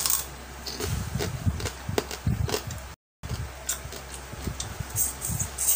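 Close-up eating sounds: chewing and mouth smacking with small irregular clicks, over a low steady hum. The sound drops out for an instant about three seconds in.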